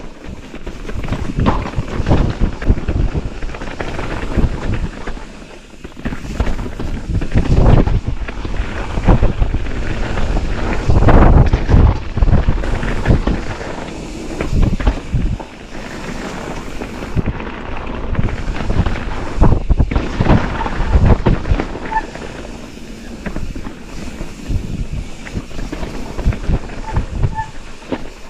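Wind rushing over the microphone while a mountain bike is ridden over rough trail, with irregular knocks and rumble from the bike on the ground.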